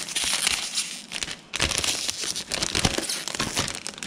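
iPad packaging crinkling and rustling as it is handled and pulled open to get the new iPad out. The sound comes in two long stretches, with a short break about a second and a half in.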